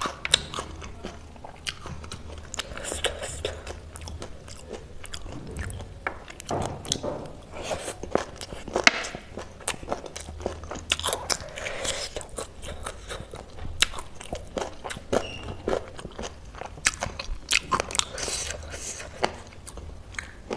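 Close-miked chewing: a person biting and crunching crisp food, with many irregular sharp crunches.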